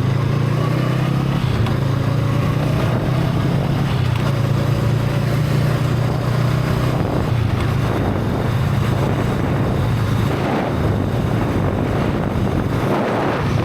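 Honda Rebel 500's parallel-twin engine with stock exhaust running at a steady cruise. Wind buffeting on the microphone grows louder over the last few seconds.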